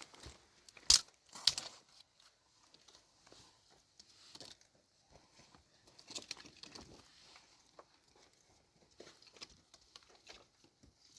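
Scattered rustling and crackling handling noises, with two sharp knocks about a second in.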